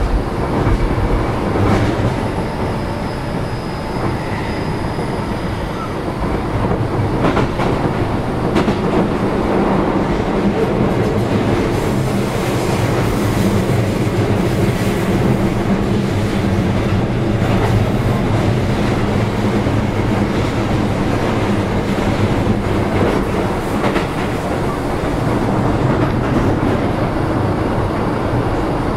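Interior running sound of a Keio 7000-series electric commuter train travelling at speed: steady rolling and wheel noise under a low hum, with clicks of the wheels over rail joints.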